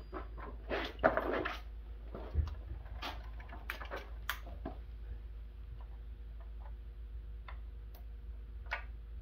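Scattered clicks, knocks and a few brief scrapes from handling the mini bike while getting it ready to start, with the engine not running. A faint steady hum sits underneath.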